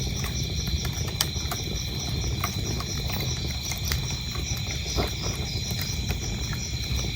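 Wood fire crackling, with scattered sharp pops over a low steady rumble, while crickets chirp in a steady, evenly pulsing high trill.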